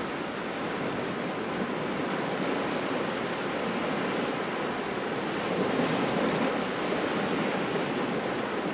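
Small waves washing against the shore in a cold, gusty wind, a steady rushing noise that swells slightly about six seconds in.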